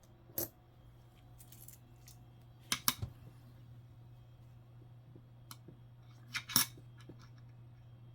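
Nickels clicking as they are handled and set into a coin tube: a single click about half a second in, a quick cluster of two or three about three seconds in, and another pair a little after six seconds, over a faint steady low hum.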